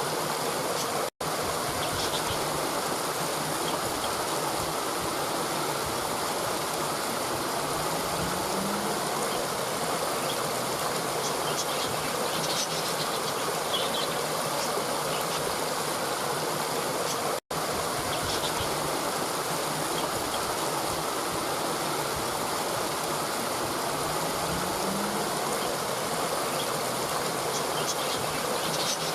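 Steady rush of running water in a stream, with faint high bird chirps now and then. The sound cuts out for an instant twice, about a second in and again about halfway.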